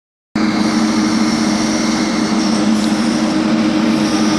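JCB backhoe loader's diesel engine running at a steady speed, a constant low drone with no change in pitch.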